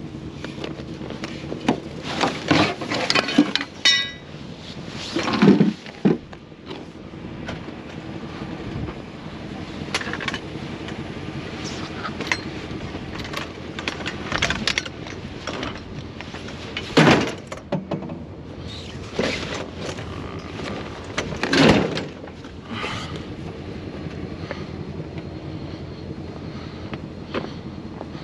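Discarded junk being rummaged through and shifted by hand: irregular clanks, rattles and several loud thuds, over a vehicle engine idling steadily.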